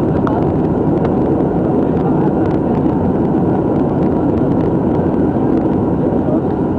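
Loud, steady rumble of an airliner heard from inside the passenger cabin during landing: engine and airflow noise, heaviest in the low range.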